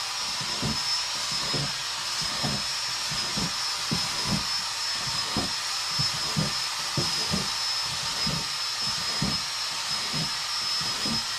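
Electric drill running without a break, drilling holes in the bottom of a plastic storage bin, with a steady high whine and a low pulse repeating about twice a second beneath it.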